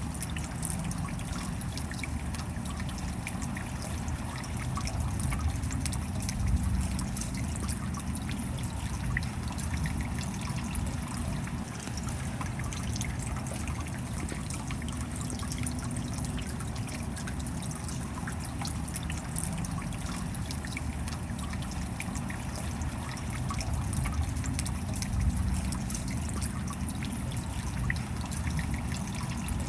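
Steady rain with many fine drips and patters, over a low rumble that swells a little twice.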